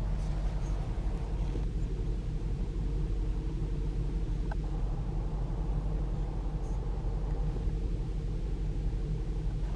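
Range Rover Sport SVR's 5.0-litre supercharged V8 idling steadily, heard from inside the cabin as an even low rumble.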